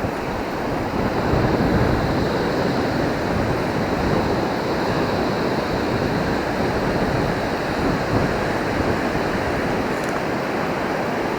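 Surf washing on the shore: a steady rush of breaking waves that swells slightly about a second in.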